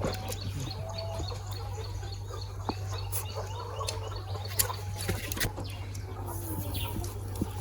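Chickens clucking and small birds chirping, over a steady low hum, with scattered sharp clicks.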